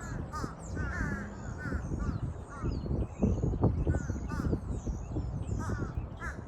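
Crows calling over and over in short groups, with fainter high chirps of smaller birds above them. A steady low rumble lies underneath, and there is one louder bump about halfway through.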